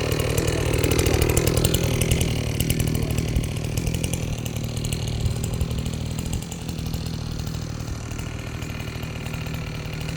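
Chainsaw engine running while cutting firewood logs. It is strongest in the first few seconds, then quieter after about six seconds in.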